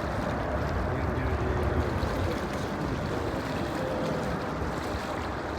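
Steady rushing jet engine noise from an airliner, heaviest in the low range, with faint wavering tones above it.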